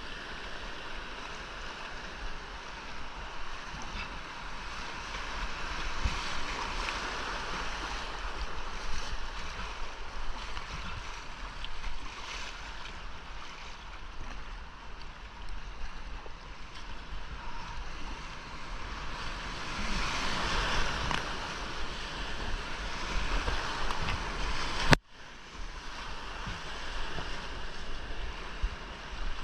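Whitewater rushing around a kayak running a creek rapid, a steady wash that swells louder twice. A single sharp knock near the end, after which the sound drops off for a moment.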